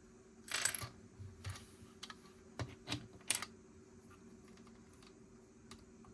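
Lego plastic pieces being handled and pressed together: a short rattle of parts about half a second in, then three sharp clicks about three seconds in and one faint click near the end.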